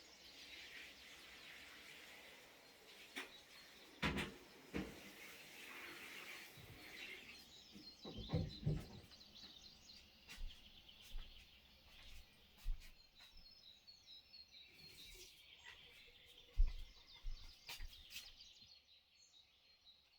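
Wild birds singing and chirping, with a few sharp knocks scattered through.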